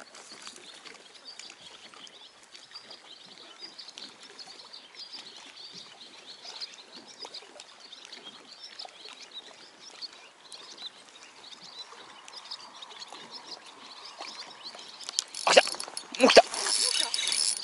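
Birds chirping faintly and at scattered moments over a quiet outdoor background. About two seconds before the end come two loud, sudden rushes of handling noise on the microphone as the camera swings.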